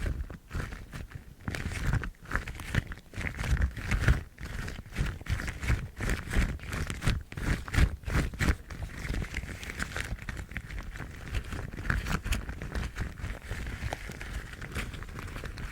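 Yellow rubber household gloves rubbed, squeezed and rustled close to the microphone in quick, irregular strokes. The strokes are sharper and busier in the first half, then give way to a softer, more even rubbing after about nine seconds.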